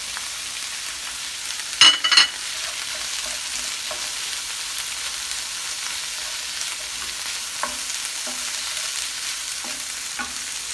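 Onions and great northern beans sizzling steadily in a hot pan while being stirred. About two seconds in comes a short, loud metallic clatter with a ringing note, followed later by a few light knocks against the pan.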